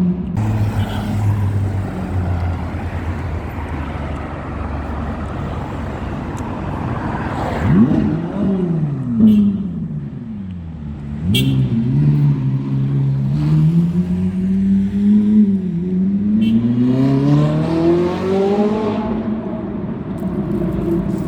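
Ferrari 458 Italia's naturally aspirated 4.5-litre V8 on its stock exhaust, running low at first, then revving up sharply and falling back, then climbing steadily in pitch for several seconds before the revs drop near the end.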